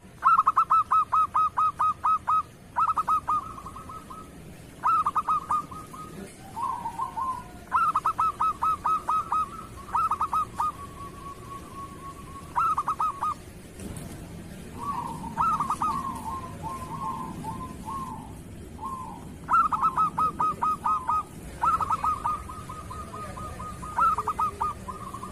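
Zebra dove (perkutut) cooing: repeated phrases of quick, evenly spaced staccato notes, about six a second, some ending in a held note, with a softer, more jumbled stretch in the middle.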